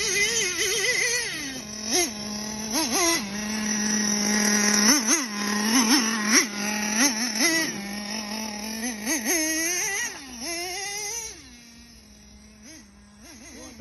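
Traxxas T-Maxx nitro 2.5 RC engine idling with repeated quick throttle blips, the revs jumping up and falling back many times. A little after ten seconds in it drops back to a quieter idle.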